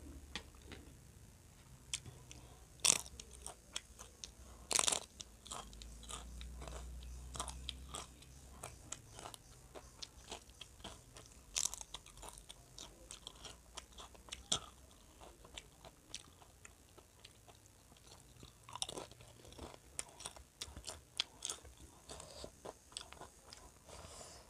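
Close-up chewing and crunching of crisp food in the mouth: a string of short, sharp crunches with a few louder bites.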